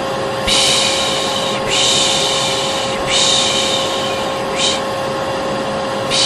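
A hair dryer running steadily with a constant hum, overlaid by long hissing 'shhh' shushing sounds repeated about every second and a half: white noise and shushing used to soothe a colicky baby.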